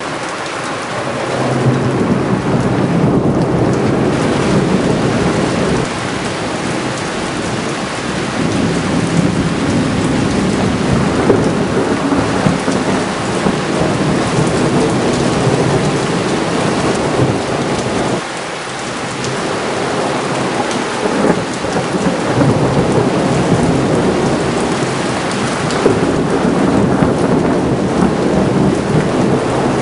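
Thunderstorm: long rolling thunder rumbling over steady rain. The rumble swells about a second in, eases, lulls briefly past the middle, then builds again.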